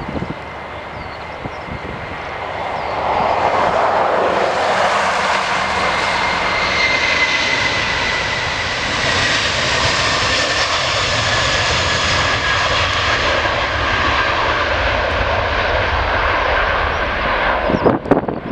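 Airliner's engines passing close by: the sound swells about three seconds in and holds loud, with a high whine that slowly falls in pitch. Wind gusts on the microphone near the end.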